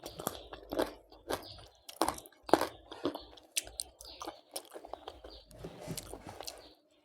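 A person chewing and crunching crisp food close to the microphone, with irregular sharp crunches between softer chewing.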